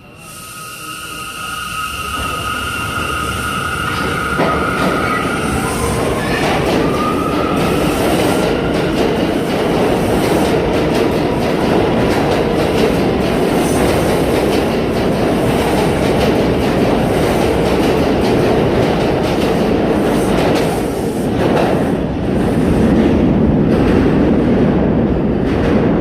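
New York City subway train running through the station, growing louder over the first few seconds into a steady heavy rumble and rattle of wheels on rails. A high steady whine at two pitches sounds over it for the first six seconds or so, followed by a short rising tone.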